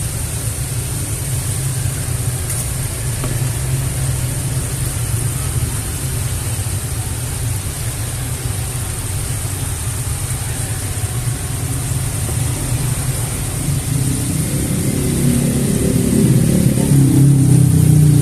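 A steady low rumble with a faint hiss, like a running engine, growing louder over the last few seconds.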